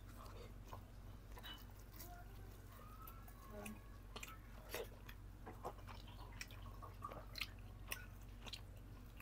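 Close-miked chewing of boiled chicken meat: soft wet mouth sounds and smacks with irregular sharp little clicks, while the meat is pulled and torn apart by hand.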